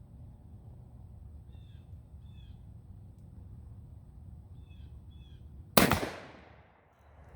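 A shotgun fired once, about six seconds in: a single loud blast that rings out and fades over about a second. Before it, a bird calls a few times in short pairs.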